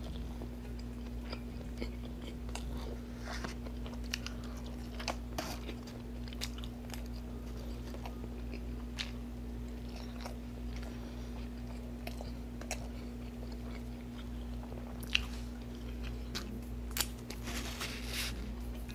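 Close-miked chewing of a mouthful of McDonald's double Big Mac: soft wet mouth clicks and smacks scattered all through, over a steady low hum. Near the end, a brief rustle of a paper napkin wiping the mouth.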